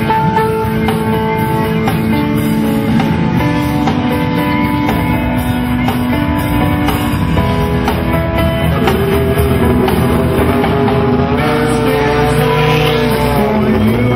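Rock band playing a song with drum kit and guitars, held notes over a steady beat.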